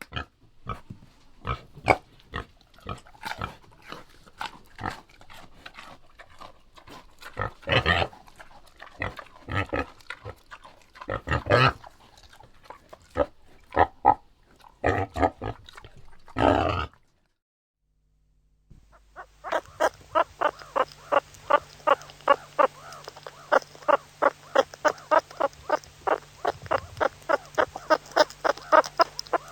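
Animal calls from two different clips: irregular short calls for the first half, then, after a brief silence, a fast, even run of calls at about three a second.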